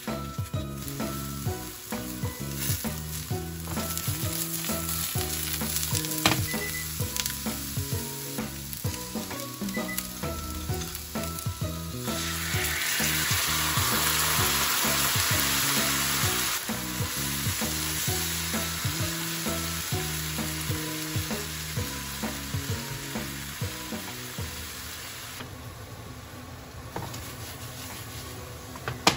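Eggplant pieces sizzling in oil in a nonstick frying pan, with occasional clicks of wooden chopsticks turning them. About twelve seconds in, a sauce is poured into the hot pan and the sizzle grows much louder and brighter for a few seconds before easing back to a steady frying hiss.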